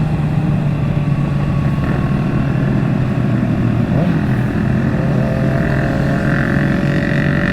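Motorcycle engine running steadily at highway cruising speed, with road and wind rush. About five seconds in, a second, higher engine note joins and climbs slightly, as another bike draws near.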